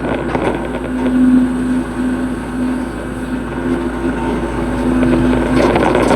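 Hitachi excavator's diesel engine running steadily under load, swelling louder about a second in and again near the end, with a brief clatter near the end.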